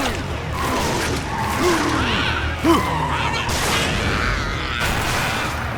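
Cartoon action sound effects from a monster-kart race battle: a steady low rumble with crashes, whooshes and a few short gliding cries.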